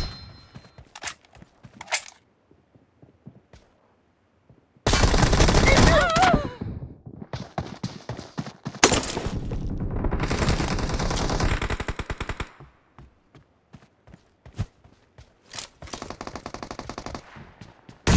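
Video game automatic gunfire: several bursts of rapid fire with single shots between, the longest bursts about five seconds in and from about ten to twelve and a half seconds in.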